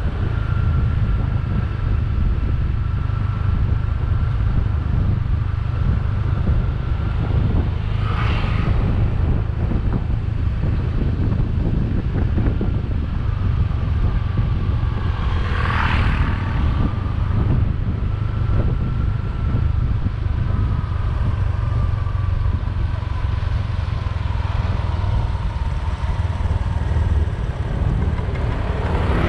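Motorbike riding along a road: steady low rumble of engine and wind buffeting the microphone, with a thin whine that wavers in pitch. Two brief whooshes come about 8 and 16 seconds in.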